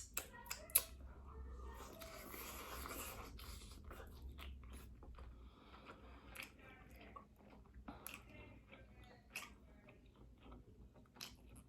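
Close-miked chewing of a hot scallop: faint wet mouth clicks and smacks, with a breathy stretch about two seconds in.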